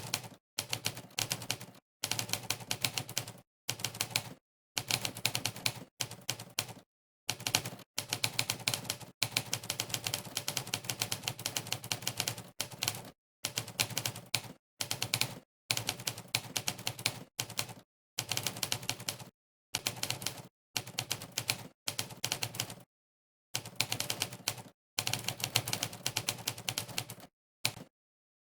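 Simulated typewriter keystroke sound effect from the Monkeytype typing site, one clack per key press, in rapid runs of about one to two seconds with short silent gaps between them. It stops near the end.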